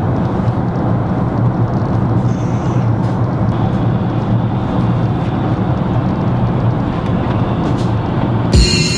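Steady jet airliner cabin noise in flight: the even rush of engines and airflow with a low hum. Near the end, music with a thumping beat cuts in.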